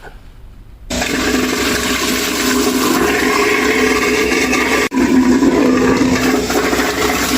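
Water rushing loudly and steadily through plumbing. It starts suddenly about a second in and breaks off for a moment near the middle before continuing.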